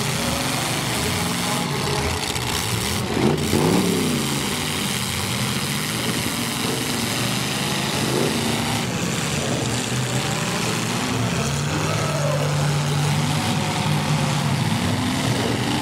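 Demolition derby cars' engines running together, revving up and down several times, loudest about three seconds in.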